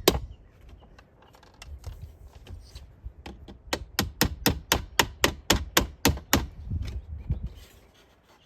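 Hinge rod being tapped through the center console armrest hinge: one sharp tap, a pause of about three seconds, then a quick even run of about a dozen taps, some four a second, tailing off into a few fainter ones near the end.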